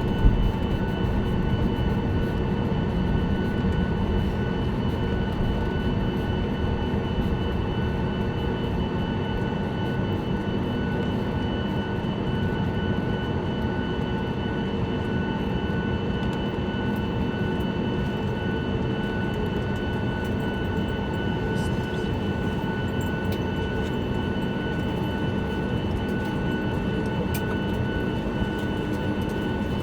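Steady cabin noise aboard a Boeing 737-9 MAX: a low rumble with several steady, even whining tones from its CFM LEAP-1B turbofan engines.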